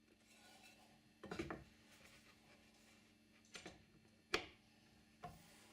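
Faint handling sounds of wood and tools on the bench: four short knocks or clicks, the sharpest a little over four seconds in.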